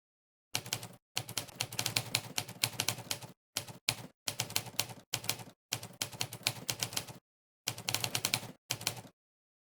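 Monkeytype's typewriter keypress sound effect, one sharp typewriter-like clack per keystroke, in fast runs of typing broken by short pauses; it stops about a second before the end.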